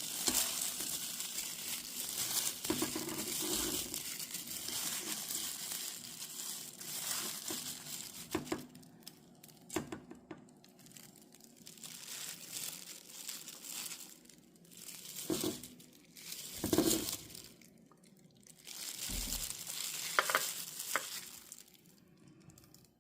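Seasoned eosuri greens being kneaded and mixed by hand in a bowl: wet squishing and crinkling in stretches, with short pauses and a few sharp ticks.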